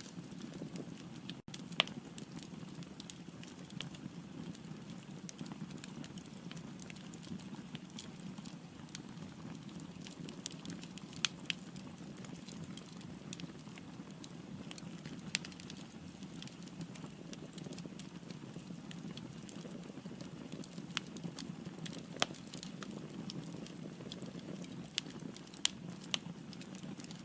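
Firewood burning in a fireplace: a steady low rush of flame with scattered sharp crackles and pops from the burning logs. There is a split-second dropout about a second and a half in.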